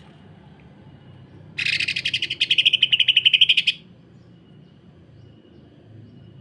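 A cucak ijo (leafbird) gives one rough, rapid trill of about two seconds, the fast even 'sewing machine' rattle of tightly packed notes, louder in its second half.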